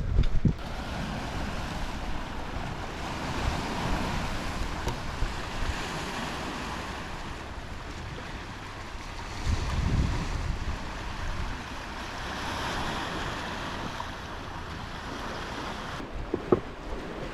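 Sea waves washing at a fishing harbour's edge, in a steady swelling hiss, with wind buffeting the microphone in low rumbles, strongest about ten seconds in.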